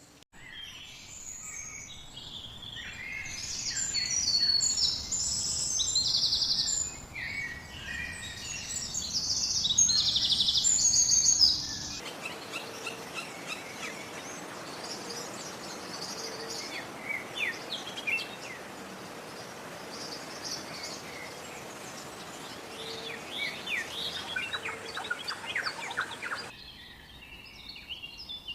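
Songbirds singing and calling, in a string of separate recordings: loud, varied song for about the first twelve seconds, then quieter, thinner chirps over a steady hiss, with another change of recording near the end.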